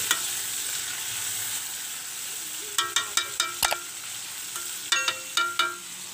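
Eel pieces frying in oil in a wok, sizzling steadily. A spatula clinks against the wok in two quick runs, about three seconds in and again about five seconds in.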